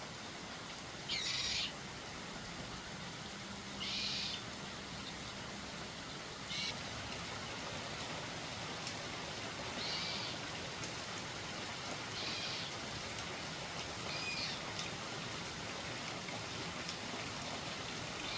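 A bird calling repeatedly: six short calls, one every two to three seconds, over a steady background hiss.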